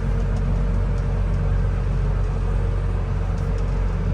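Engine of the farm vehicle hauling a cattle feeder wagon, running steadily at a low idle-like hum with a faint steady higher tone.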